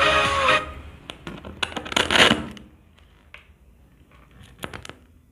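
Pop music playing from a Mifa K3 soundbar stops abruptly under a second in. Then come scattered handling noises: sharp clicks, a short scraping rustle about two seconds in, and two more clicks near the end.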